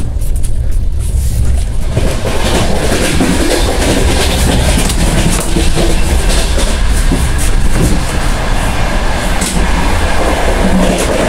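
Moving passenger train heard from inside its carriages: a steady rumble of wheels on rail with irregular knocks and rattles. It gets much louder about two seconds in, and stays loud as the vestibule between carriages is reached.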